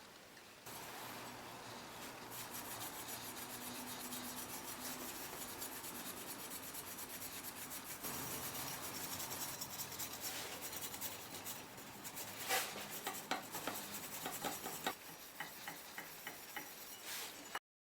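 Steady rubbing or rasping on a surface, with a string of short sharp clicks over the last few seconds before it cuts off abruptly.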